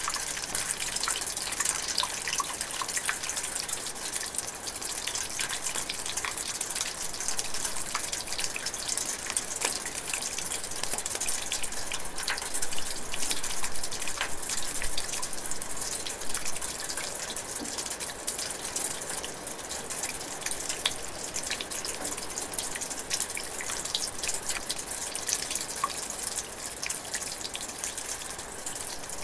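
Light rain drizzling steadily, with many small drops pattering and dripping close by.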